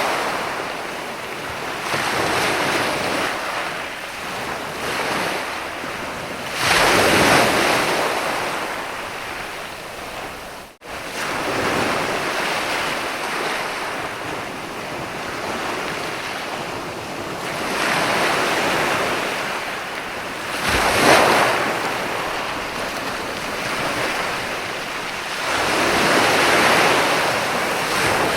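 Ocean waves washing onto a sandy beach: a steady hiss of surf that swells as each wave breaks, with the biggest surges about a quarter of the way in, about three-quarters through and near the end. The sound cuts out for a split second a little over a third of the way in.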